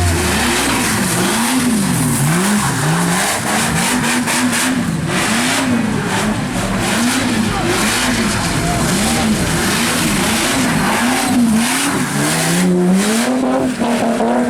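A car engine revving up and down in a steady rhythm about once a second, typical of a car spinning donuts, then climbing and holding high revs near the end, with a constant hiss of spinning tyres and background noise.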